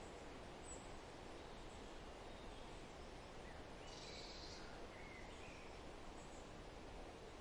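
Faint forest ambience: a steady, even hiss with a few short, high bird chirps scattered through it, and a brief high buzzy trill about four seconds in.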